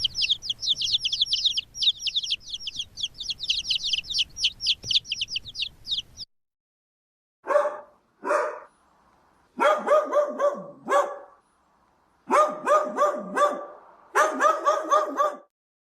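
Animal calls in two parts. First comes about six seconds of a rapid run of high-pitched chirps. After a short pause there are four bursts of lower, repeated pitched calls, each a quick series of notes.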